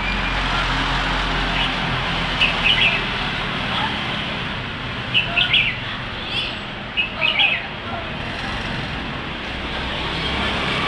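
A small bird chirping in three short bursts of quick high notes, a couple of seconds apart, over a steady background noise.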